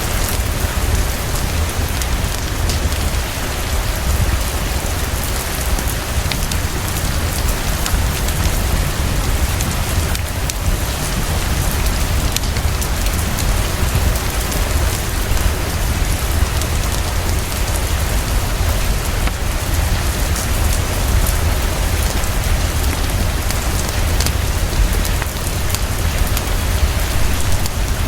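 Heavy, fast, steady rainfall pouring down, with a deep low rumble underneath and scattered small ticks of drops.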